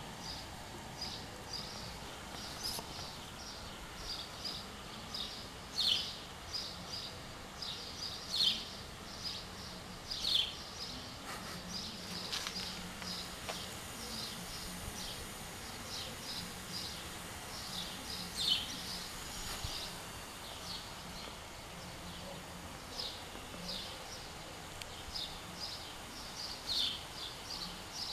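Small birds chirping, short high chirps coming a few times a second with some louder ones scattered through, over faint steady outdoor background noise.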